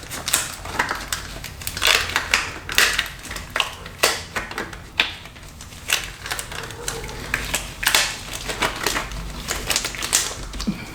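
Irregular crinkling and clicking of reusable salon gloves being handled and pulled on.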